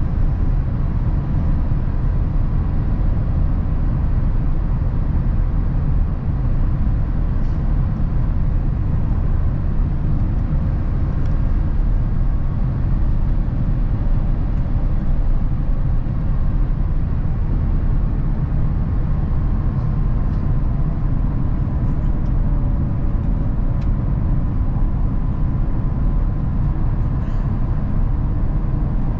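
Steady low rumble of cabin noise inside an Airbus A350-1000 airliner on its approach to landing, with faint steady tones above it.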